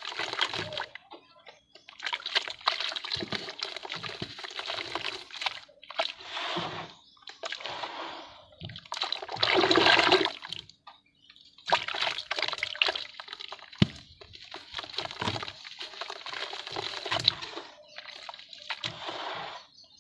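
Lumps of red dirt being dipped in water and crushed by hand: bursts of wet crumbling, crackling and sloshing a second or two long, separated by short pauses, loudest about halfway through.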